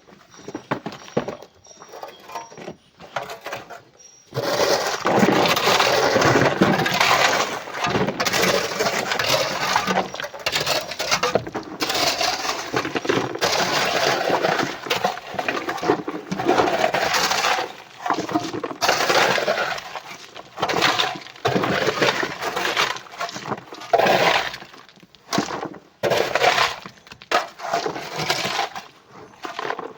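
Loose rock and coral clattering and crunching as it is loaded, in long noisy waves with short gaps. It begins with a few light knocks, then turns loud about four seconds in.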